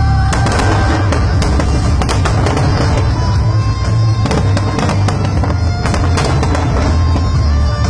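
Fireworks display with many shells bursting in quick succession over a continuous low rumble, and music playing along.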